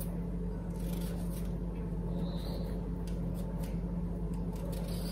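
A steady low hum, with a few faint light rustles and taps over it.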